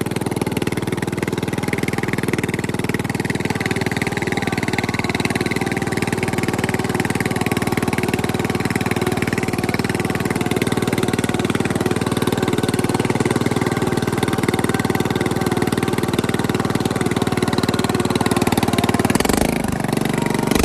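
Bolens riding mower engine running steadily through a homemade exhaust pipe. The note changes about a second before the end.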